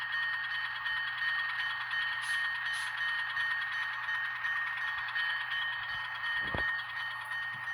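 ESU LokSound decoder playing a diesel switcher's engine sound through the small speaker of an N scale Atlas diecast switcher running slowly at low speed step, with a steady high whine, a couple of faint ticks and a single brief low thump near the end.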